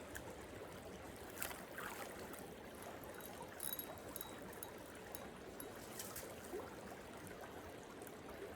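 Small rocky creek flowing, a faint steady trickle of water, with a few light clicks now and then.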